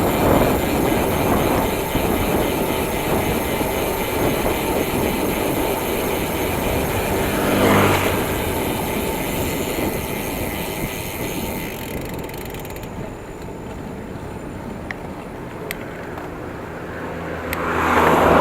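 Steady road and wind rush from a moving bicycle ride. A motor vehicle passes close by about eight seconds in, and another swells up and passes near the end.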